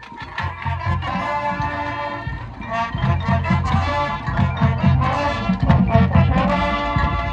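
Marching band playing: sustained brass chords over heavy low drum and bass pulses, which grow louder about three seconds in.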